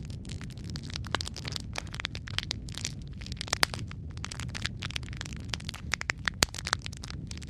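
Wood fire crackling in a fireplace: irregular sharp pops and snaps over a steady low rumble of the flames, with a few louder pops.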